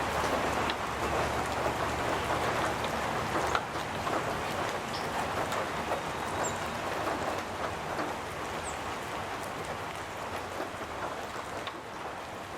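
Steady light rain pattering on a metal roof, a dense patter of drops that slowly grows quieter, with a few faint bird chirps.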